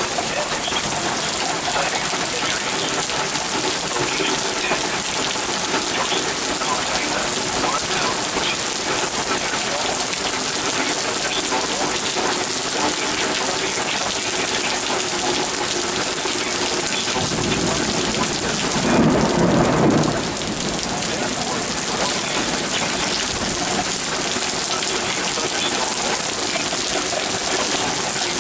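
Steady rain falling, with a roll of thunder about seventeen seconds in that builds to its loudest near the twentieth second and then cuts off.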